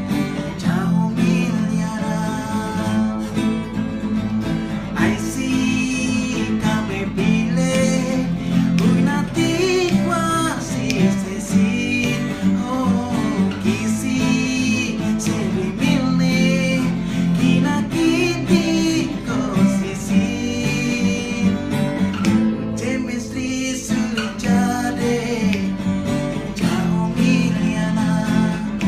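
Acoustic guitar strummed steadily, accompanying men singing a melodic song.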